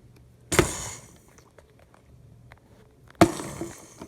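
Two sudden sharp knocks or crashes, about two and a half seconds apart, each with a short noisy tail.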